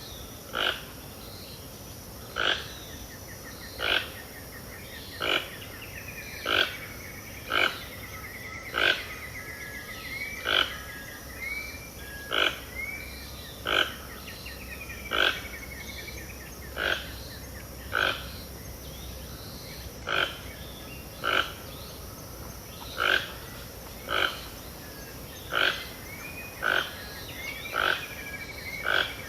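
Wetland dawn chorus: a loud, short, sharp call repeats a little under once a second, over fainter whistling and trilling birds and a steady high insect hiss.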